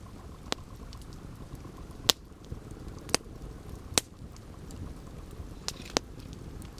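Campfire burning, with a low steady hiss and a few sharp wood crackles and pops, the loudest about two seconds in.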